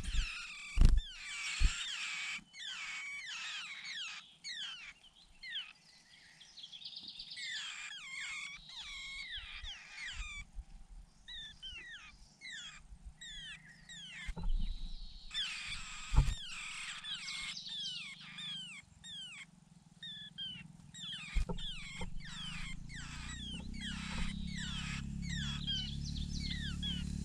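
Nestling birds calling for food in dense runs of short, high chirps that slide downward. There are a few sharp knocks, and a low rumble builds near the end.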